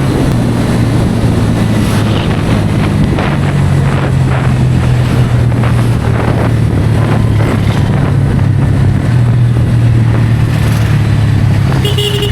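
Bajaj Pulsar N160's single-cylinder engine running at a steady cruise, with wind rushing over the microphone. A vehicle horn sounds briefly near the end.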